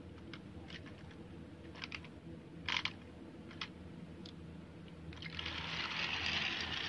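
Battery-powered toy train running on its plastic track: a steady motor hum with scattered sharp clicks in the first few seconds. About five seconds in, a louder hissing noise starts and holds.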